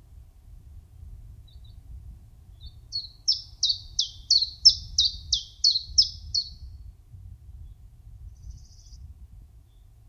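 A small songbird sings a run of about ten quick, high notes, each sliding downward, at roughly three a second, with a few faint single chirps before and after, over a faint low rumble.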